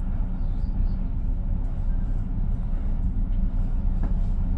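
Commuter train car rolling along the track, heard from inside the car: a steady low running rumble with a couple of faint clicks.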